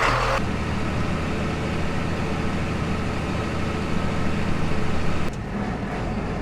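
Tractor's diesel engine running steadily just after being started, a low even hum; about five seconds in the sound drops slightly and changes note.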